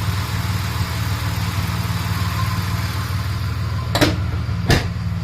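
Car engine idling steadily. Near the end, two short sharp knocks less than a second apart.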